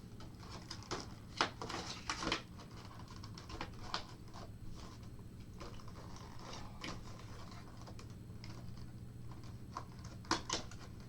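Cardboard model-train box and its inner packaging being handled and packed away: scattered rustling, clicks and taps, with a few sharper knocks early and again near the end, over a steady low hum.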